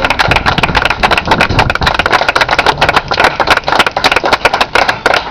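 Audience applauding: a dense run of many quick, irregular hand claps.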